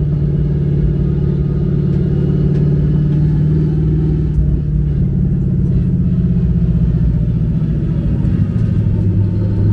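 A car engine runs loudly at fairly steady revs. Its note steps up slightly about halfway through and drops back near the end.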